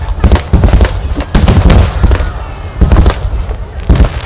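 Fireworks finale barrage: shells bursting in quick succession, several loud booms and cracks a second overlapping one another.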